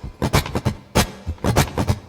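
Guitar strummed in a quick, percussive rhythm, about four to five strokes a second, as a song begins.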